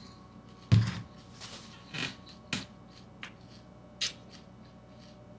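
A few short knocks and clicks of things being handled: a heavier thump about a second in, then four lighter clicks spread over the next few seconds.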